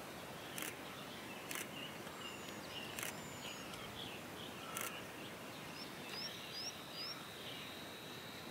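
Quiet open-country ambience with faint scattered bird calls, including three short rising chirps about six to seven seconds in, and a few soft clicks.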